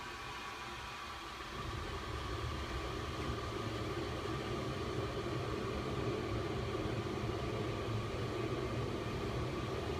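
Home-built forced-air LP gas burner firing into a small furnace: a steady rumbling hiss of flame and blown air, which grows louder about a second and a half in and then holds.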